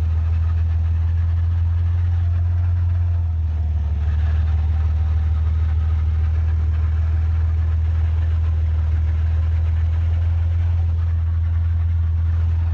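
Whirling noise from a 1999 Jeep Grand Cherokee's Dana 35 rear axle: a steady low drone with a fainter whine above it, the sign of a destroyed pinion bearing.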